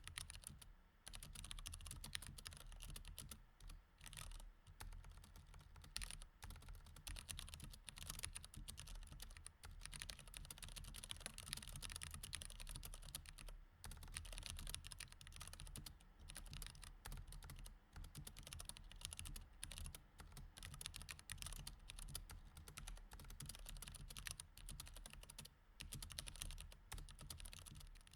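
Mechanical keyboard with Cherry MX Red switches being typed on continuously: a rapid, irregular run of key clicks, broken by a few short pauses.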